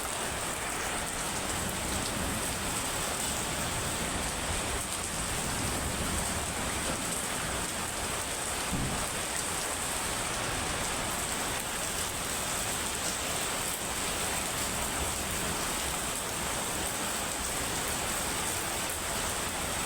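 Heavy rain falling steadily, a constant hiss of rain.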